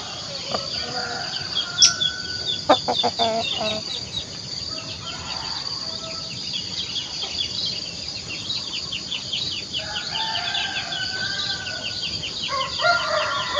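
Rooster crowing twice in the second half, with hens clucking, over a constant fast chirping of small birds high in the background.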